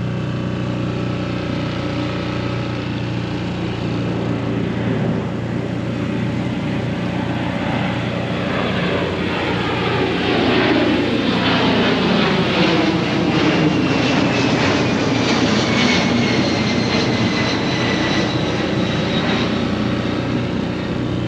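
Airplane passing low overhead, its engine pitch falling as it goes by and a high whine sliding down. Underneath is the steady drone of a small dinghy outboard motor.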